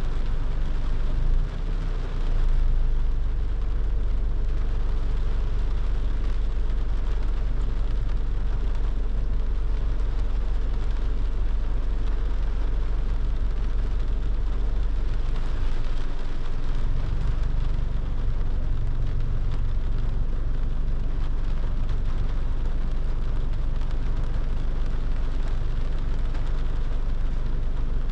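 Car driving in the rain: a steady low rumble of the car on the road, with an even hiss of rain and wet tyres.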